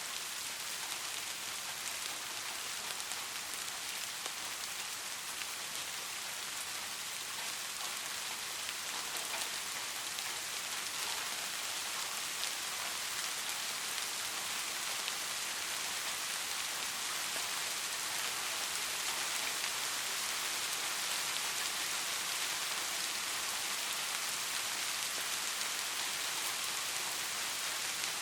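Steady rain falling and pattering on a surface: a dense, even hiss with many small drop ticks and no thunder.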